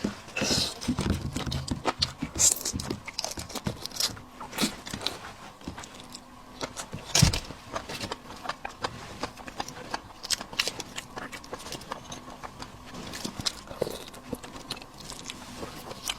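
Close-up eating sounds: a person peeling, biting and chewing shrimp, with many small wet clicks and crackles of shell and flesh and one louder crack about seven seconds in.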